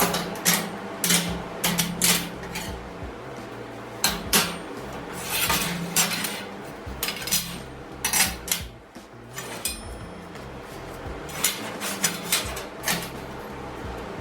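Irregular metal clanks and clatters, like steel parts being handled, knocked together and set down, with a lull a little past the middle.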